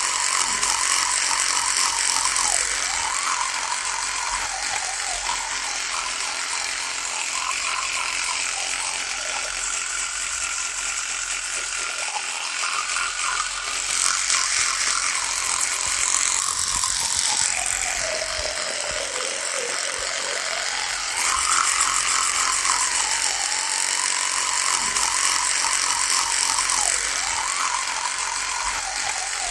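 Electric toothbrush buzzing continuously. Its pitch wavers up and down and sags noticeably lower a little past the middle before climbing back.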